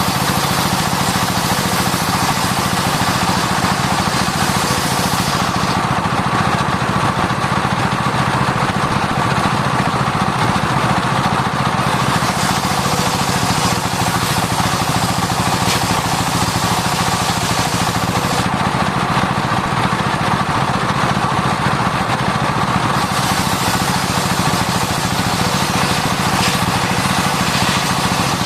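Circular sawmill blade running steadily through sengon wood, with a constant whine over a low machine rumble. The high cutting hiss swells and drops back in stretches of several seconds as the cuts go on.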